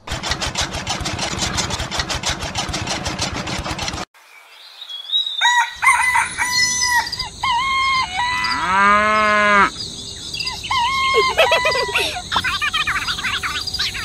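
A small motor on a miniature chaff cutter runs with rapid, even clicking for about four seconds, then stops. After a short pause come farm-animal calls: chicken clucking and a rooster crowing, with one longer, arching call in the middle.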